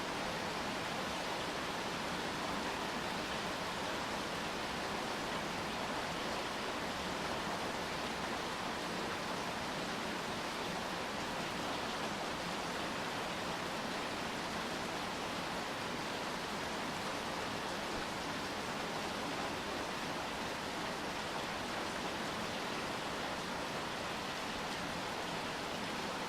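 Steady rainfall: an even, unchanging hiss with no separate drops or other sounds standing out.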